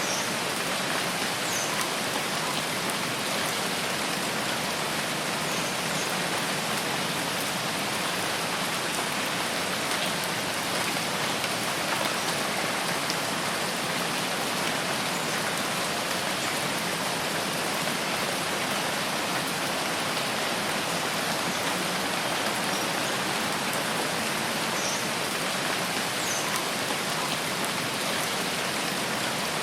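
Steady rain falling, an even hiss of drops with no change in strength, with a few faint short high chirps over it.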